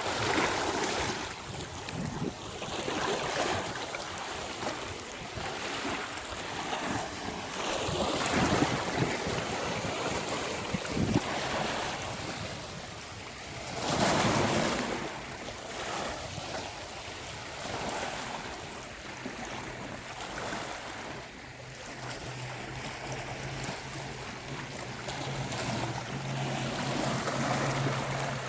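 Sea waves breaking on a beach in repeated surges that swell and fall away, with wind buffeting the microphone. A low steady hum joins about two-thirds of the way in.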